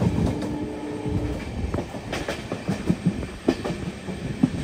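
Passenger train carriage rolling into a station, with the rumble of the wheels and scattered knocks from the wheels crossing rail joints. Two steady tones sound together for about the first second.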